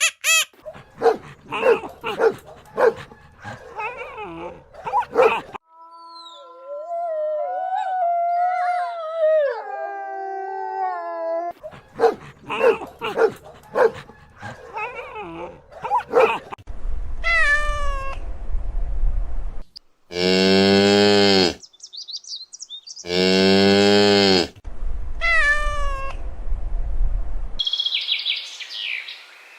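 A string of separate animal calls: rapid clicking and chattering, gliding whistly tones, falling pitched cries, and two long, steady, low cattle moos in the middle.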